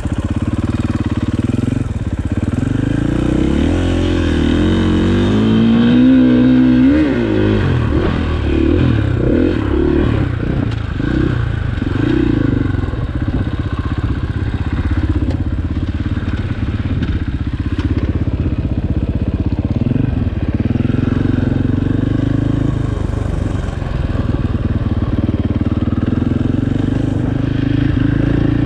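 Enduro motorcycle engine being ridden off-road, revving up and down with the throttle. The pitch climbs for a couple of seconds about four seconds in, drops sharply, then keeps rising and falling.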